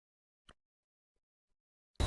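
Near silence, with one faint click about half a second in and two fainter ticks after it.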